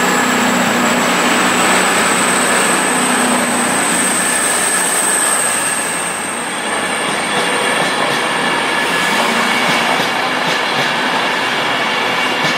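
A train running through on the rails, loud and steady. A thin high-pitched wheel squeal rises slightly through the first half, and repeated clicks of wheels over rail joints come near the end.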